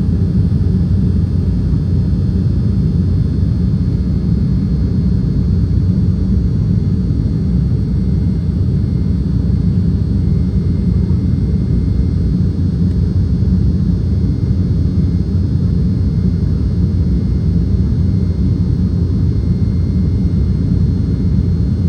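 Cabin noise of an Embraer E195 jet under power, heard from a passenger seat: a loud, steady low rumble of airflow and its GE CF34-10E turbofan engines, with a faint high steady whine above it.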